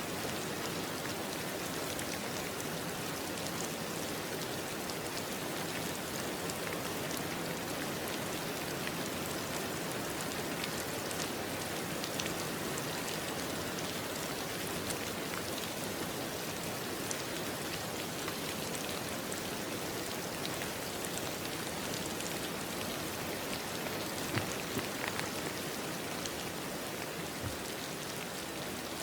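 Steady rainfall pattering on a surface, an even hiss of rain with small drop ticks scattered through it and a few slightly louder drops near the end.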